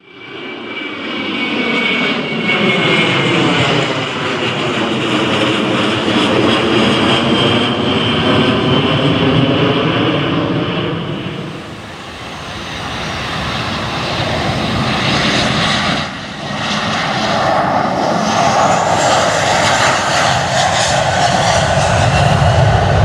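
Turbofan engines of a Boeing 737-based Navy jet passing by, a steady rush of jet noise with a whine that falls in pitch over the first few seconds. The sound eases about twelve seconds in, then builds again.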